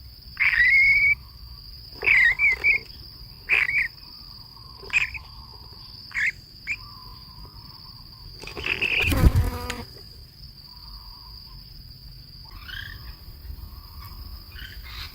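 A steady, high-pitched insect drone, like crickets, runs under short chirping calls that come about once a second for the first seven seconds. About nine seconds in there is a loud rushing noise lasting a second or so.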